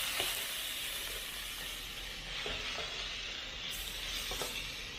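Meat sizzling steadily in hot oil in a pan as it is stirred, with a few light knocks of the stirring utensil.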